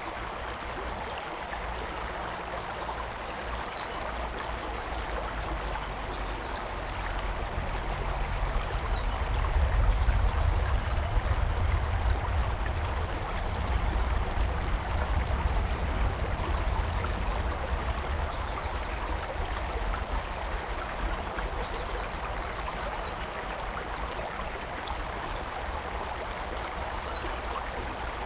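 Stream water rushing steadily. A low rumble swells up about a third of the way in and eases off past the middle.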